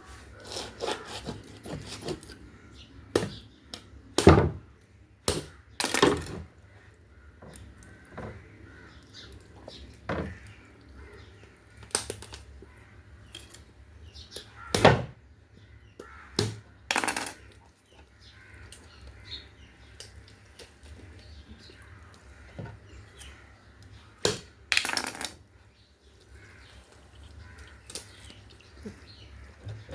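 Scattered knocks, clinks and brief scraping noises of kitchen work, coming irregularly with pauses between; the loudest come about 4, 6, 15, 17 and 25 seconds in.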